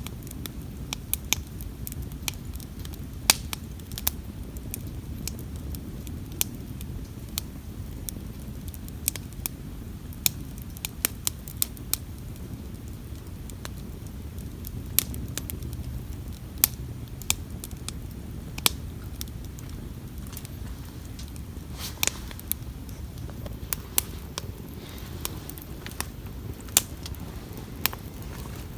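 Wood campfire crackling, with sharp irregular pops from the burning wood several times a second over a steady low rumble.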